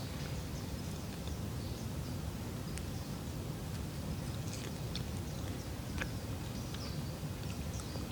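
Forest ambience: small birds chirping in short scattered calls over a steady low rumble, with a few sharp clicks.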